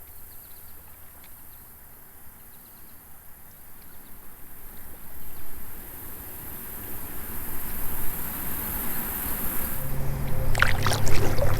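Kayak paddle strokes dipping into and splashing river water, growing louder partway through. Near the end a steady low hum sets in, along with a few sharper splashes.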